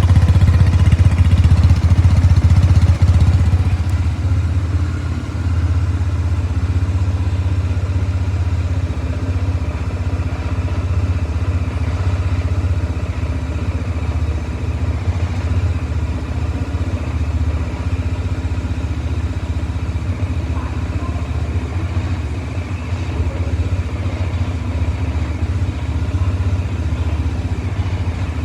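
Bajaj Dominar 400's single-cylinder engine idling just after a cold start. It runs a little louder for the first few seconds, then settles to a steady idle.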